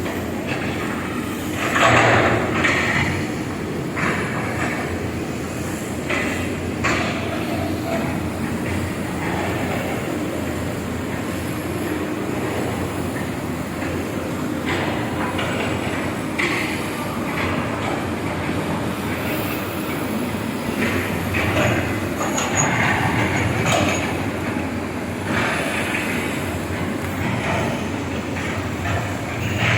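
Backhoe excavators working: diesel engines running steadily under load, with scattered clanks and scrapes from buckets and tracks.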